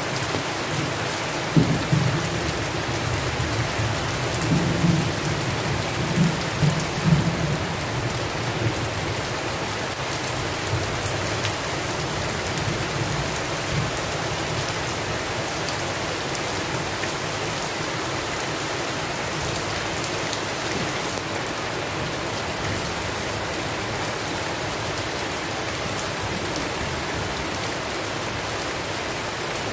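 Steady rain in a rainstorm, with low rumbles of thunder during the first several seconds, then rain alone.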